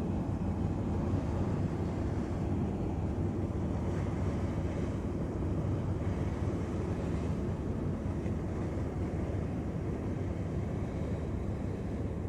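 A ship's engine running steadily: a low, even rumble.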